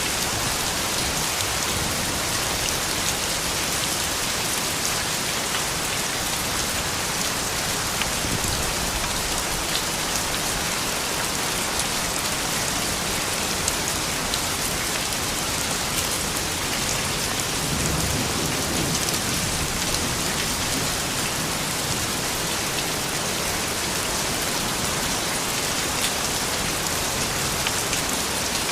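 Gentle, steady rain falling, with scattered individual drop ticks. A brief low rumble swells about two-thirds of the way through.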